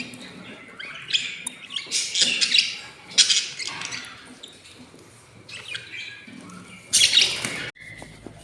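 Budgerigars chirping and chattering in short bursts with quieter gaps between; the loudest burst comes near the end and stops abruptly.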